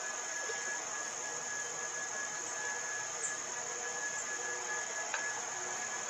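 Steady outdoor insect chorus, crickets trilling continuously at a high pitch, with one short click about five seconds in.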